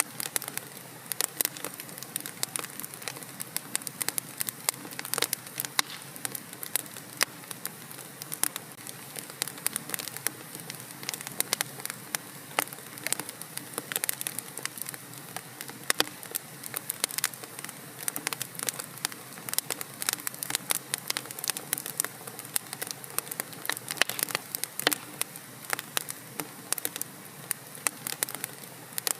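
Fire crackling in a fireplace: frequent irregular sharp pops and snaps over a steady soft hiss.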